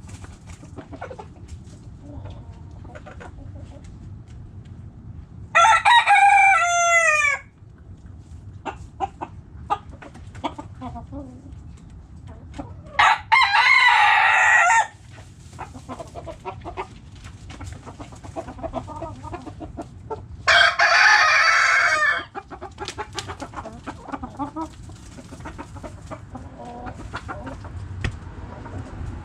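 Backyard roosters crowing three times, each crow about two seconds long and the loudest sound, spaced several seconds apart. Between the crows, hens cluck softly.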